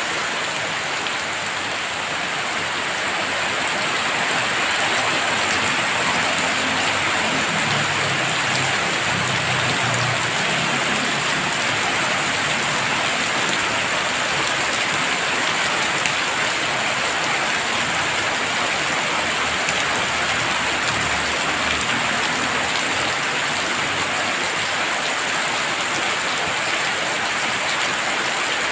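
Heavy rain falling steadily, an even downpour with a low rumble coming and going underneath.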